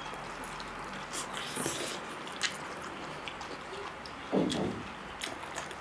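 Close-miked eating sounds: chewing of fried-egg omelette and noodles, with soft mouth clicks and smacks, and a short low sound about four and a half seconds in.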